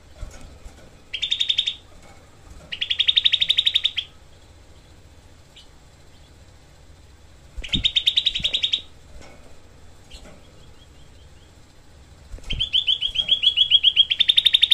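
Grey-bellied bulbul (cucak kelabu) singing its tight, harsh rapid-fire trills of fast repeated notes. The trills come in four bursts: two short ones in the first four seconds, one about eight seconds in, and a longer one near the end.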